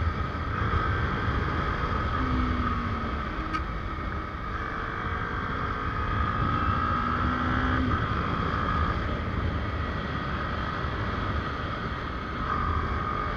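Kawasaki Ninja 250R's parallel-twin engine running under way, its pitch climbing and then dropping a few times as it accelerates and shifts, with wind rumbling on the microphone.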